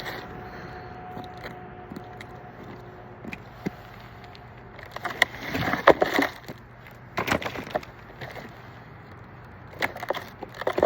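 Firewood knocking and clattering in three short bursts of sharp knocks, the loudest about six seconds in, over a steady low hum.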